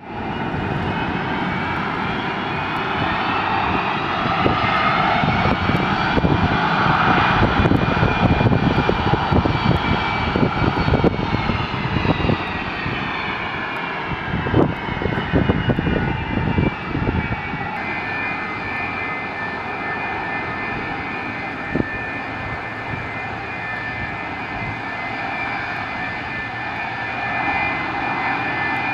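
Airliner engines running with a high multi-toned whine that rises over the first few seconds, falls back from about eleven seconds in and then holds a steady pitch, over a rumble with wind buffeting the microphone.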